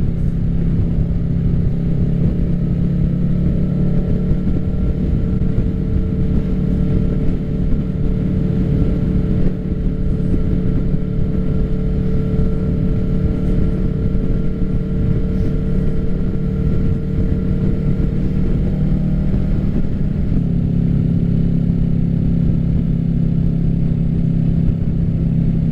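Kawasaki Ninja 650's parallel-twin engine running through an M4 full aftermarket exhaust at a steady cruise, its note holding nearly constant pitch. The tone shifts slightly about twenty seconds in.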